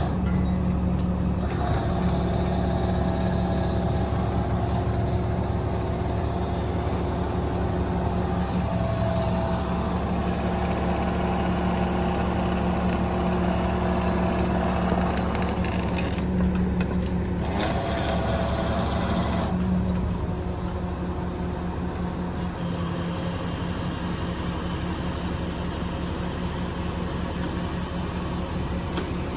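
Kenworth T370's Cummins 8.9 diesel engine running steadily, a constant mechanical hum.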